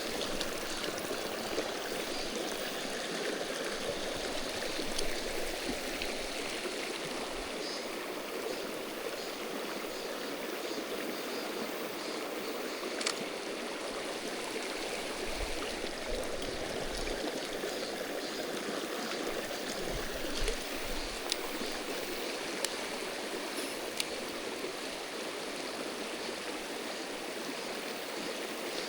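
Mountain stream water running steadily, with a few sharp clicks and soft low thumps here and there.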